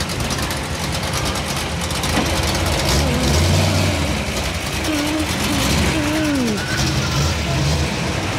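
Car engine idling with a low rumble that swells about three seconds in.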